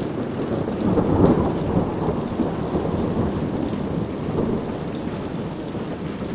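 Heavy rain falling steadily, with a deep rumble of thunder that swells about a second in and slowly fades.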